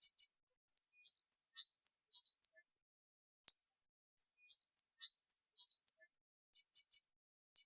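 Kemade bird calling clear, loud chirps: a rising whistled note, then pairs of short down-slurred notes in quick succession. Near the end come three short, hard clipped notes.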